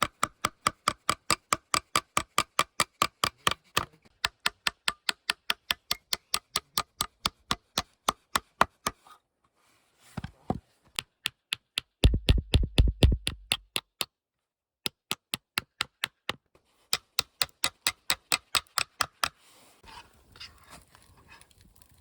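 Rhythmic chopping: quick, even, sharp strikes, about three or four a second, in long runs with short pauses. Around the middle comes a stretch of heavier, low thudding.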